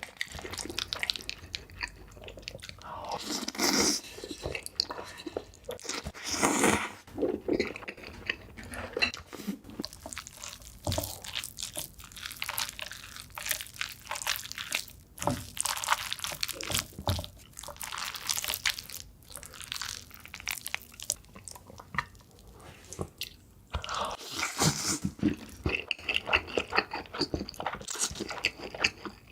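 Close-miked eating sounds: a person chewing and biting into food, with wet crackly crunching that comes in irregular clusters.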